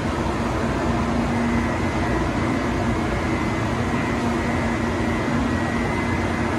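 Steady hum and whir from a Tokaido Shinkansen train at the platform, with a few faint steady tones running through it and no rise or fall.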